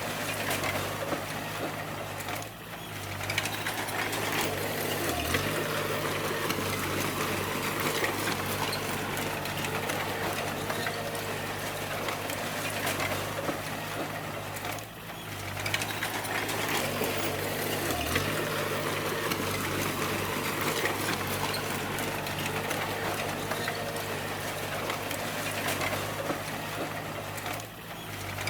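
Crawler bulldozer working: its diesel engine runs steadily under a continuous rattling clatter, and the level dips briefly three times.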